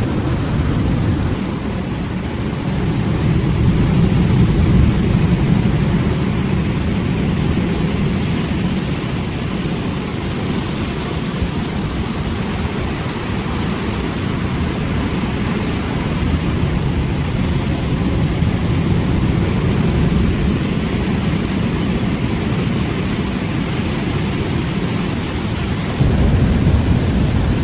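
Ocean surf breaking: a continuous rushing noise with a deep rumble that swells and eases every several seconds, changing abruptly near the end.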